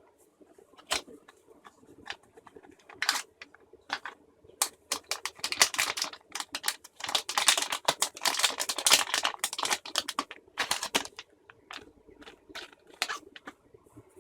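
Small electronics packaging being handled and opened by hand: scattered clicks and taps, then a dense crinkling rustle through the middle, then more scattered clicks.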